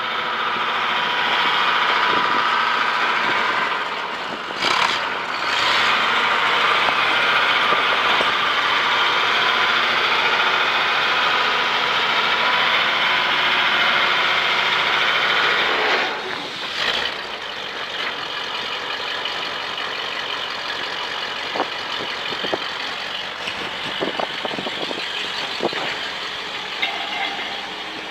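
1973 Dodge 600 grain truck's engine running steadily, louder for the first half and quieter after about sixteen seconds, with a few light clicks near the end.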